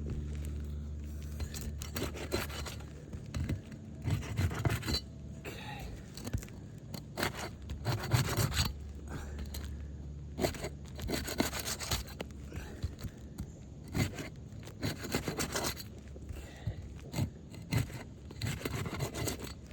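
Irregular, repeated scraping strokes of a tool worked against and under old, brittle asphalt roof shingles, loosening the tabs for removal. A steady low hum runs underneath.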